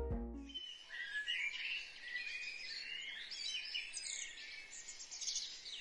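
A plucked-string music phrase dies away in the first half second, then a fairly faint chorus of songbirds chirping and singing, many short overlapping calls.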